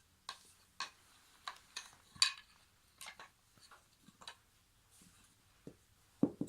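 Wooden IKEA toy train track pieces knocking and clicking together as they are handled and fitted: about a dozen irregular knocks, the sharpest about two seconds in, and a duller knock near the end.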